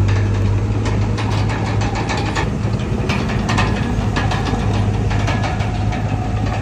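Komatsu D31PX crawler bulldozer's diesel engine running steadily under a strong low hum, with frequent short knocks and clanks.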